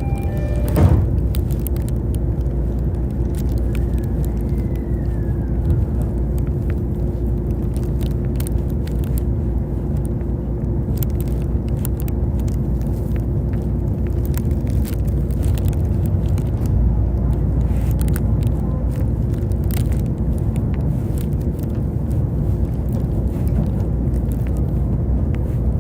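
E531 series electric train running: a steady rumble of wheels on rail with a constant hum, scattered clicks and crackles, a thump just under a second in, and a brief falling whine about four seconds in.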